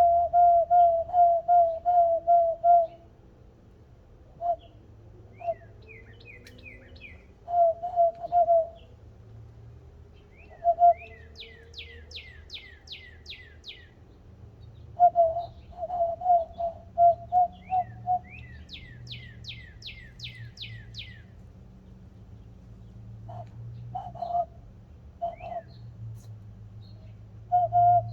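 Two kinds of bird-like whistled calls trading back and forth: runs of even, low notes, about four a second, alternating with runs of quick high notes that each slide downward.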